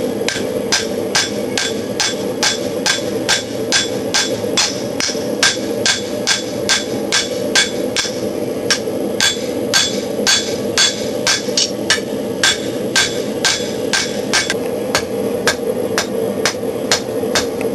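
Hand hammer striking hot knife steel on an anvil at an even pace of about two and a half blows a second, drawing out the blade's point and edge. A steady rush from the forced-air forge's blower runs underneath.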